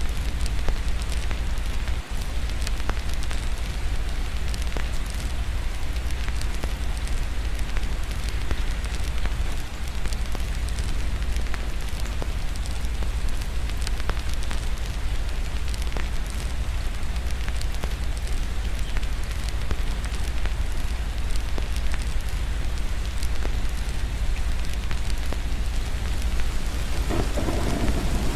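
Steady rain with the crackle of a wood fire, small sharp pops scattered throughout; a roll of thunder begins to build near the end.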